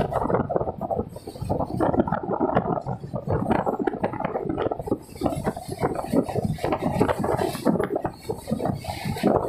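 Passenger train running along the track, heard at an open coach door: a dense, uneven clatter of wheels and rattling coach fittings.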